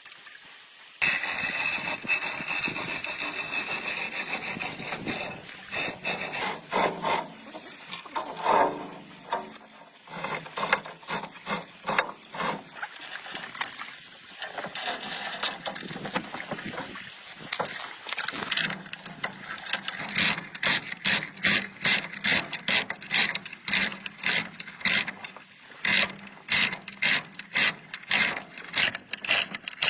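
Hand-tool work on a vehicle: a steady hiss for a few seconds, then repeated scraping or rasping strokes that settle into a regular rhythm of about two to three a second.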